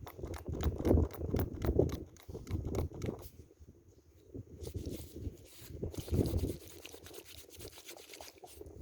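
Irregular rubbing and scraping as a freshly dug-up metal badge is handled and rubbed clean close to the microphone, with clusters of noise about a second in, near two and three seconds, and again after six seconds.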